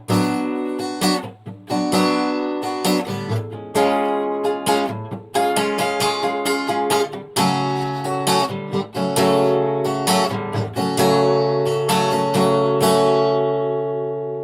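Acoustic guitar strumming chords, closing on a final chord that rings out and fades.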